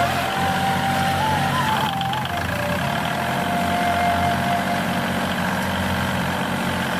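Steady engine-like hum, with a simple tune of held notes stepping up and down over it.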